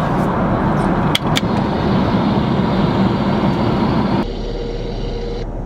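Steady roar of an airliner cabin in flight, with two quick clicks a little over a second in. About four seconds in the noise turns duller and quieter, leaving a faint steady hum.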